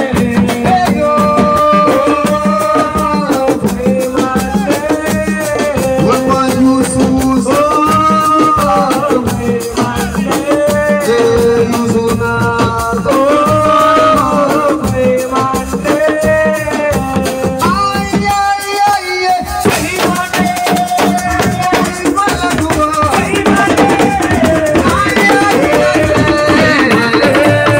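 Live assiko music: a sung melody over drums and shakers, with a brief drop about two-thirds through before the band comes back fuller.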